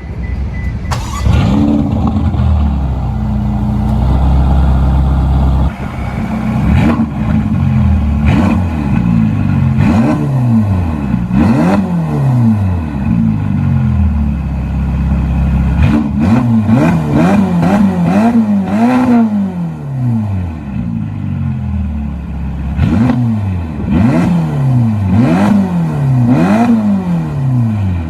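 Ferrari California T's twin-turbo V8 through a Topspeed rear-section exhaust, running steadily for a few seconds and then revved over and over in quick blips, the pitch rising and falling about once a second.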